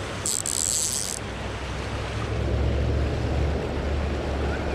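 Steady rush of river water around a wading angler, with a brief high hiss near the start and low wind rumble on the microphone from about two seconds in.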